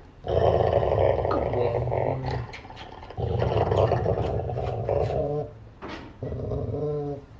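A dog growling in three long, drawn-out growls with short breaks between them.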